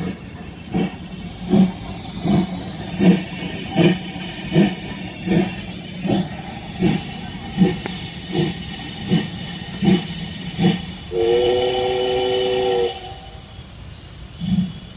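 Recorded steam locomotive sound: a steady run of exhaust chuffs about every three-quarters of a second, then a steam whistle sounding one two-note chord for under two seconds about eleven seconds in.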